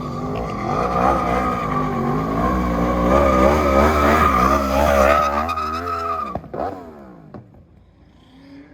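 Car tyres squealing steadily while the engine revs rise and fall rapidly, stopping abruptly about six seconds in. A brief falling whine follows.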